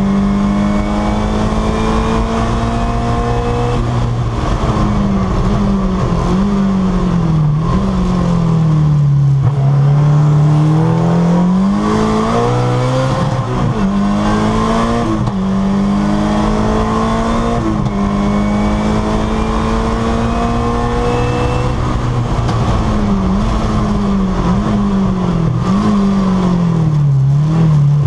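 The Peugeot 205 T16 Group B's turbocharged 1.8-litre four-cylinder engine, heard from inside the cabin while the car is driven hard. The engine note climbs and drops again and again, with several quick dips and rises as the driver changes speed, between steadier stretches at high revs.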